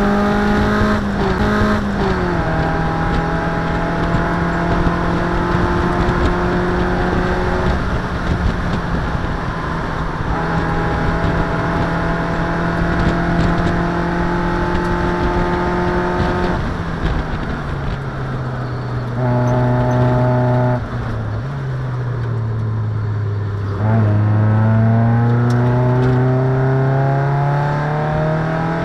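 Race car engine heard from inside the cockpit, holding a steady high note at speed with a brief dip about two seconds in. From about two-thirds of the way through, the pitch falls as the car slows for a corner. It then rises steadily as the car accelerates out, near the end.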